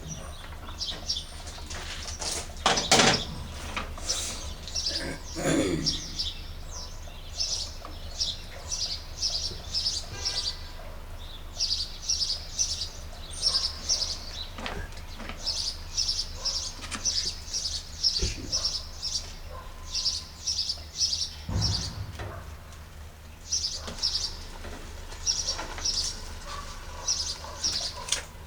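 A bird chirping over and over in short quick runs of high notes, with brief pauses between runs. There are a few knocks or thumps in between, the loudest about three seconds in.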